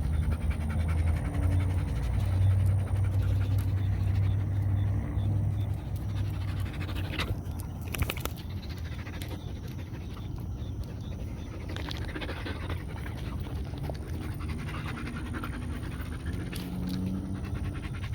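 A dog panting steadily close to the microphone, with a low hum underneath during the first several seconds and one sharp click about eight seconds in.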